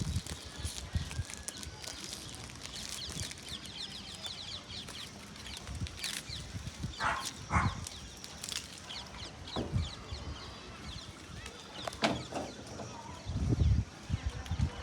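Bird calls: a run of quick high chirps, then two short calls about seven seconds in, with a few sharp knocks.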